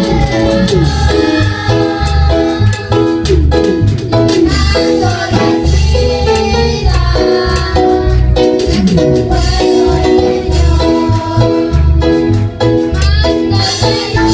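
Latin tropical band music with a steady pulsing bass beat and melodic lead lines.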